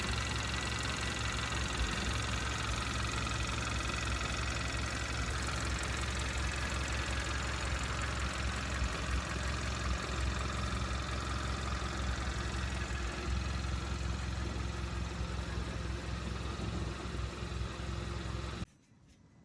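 A car engine idling steadily, stopping abruptly near the end.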